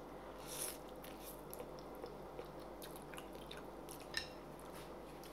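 Close-up mouth sounds of a person eating noodle soup: a short slurp of noodles about half a second in, then soft chewing with small wet clicks.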